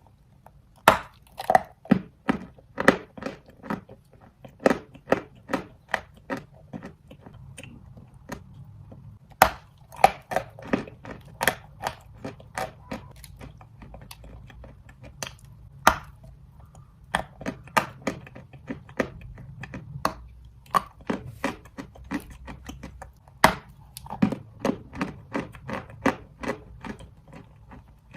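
Dry red chalk being bitten and chewed: a run of sharp, crisp crunches, about one or two a second, with short pauses between runs.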